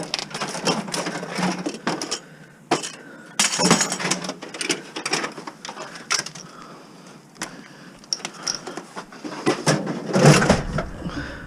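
Irregular knocks, clanks and rattles of scrap metal parts being handled and pulled apart while stripping a dishwasher, with a louder burst of clatter about ten seconds in.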